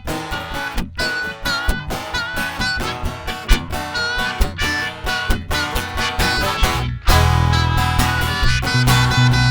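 Acoustic folk band playing a song's instrumental introduction: rhythmic guitar strumming under a wavering melody line. About seven seconds in, bass comes in and the sound fills out.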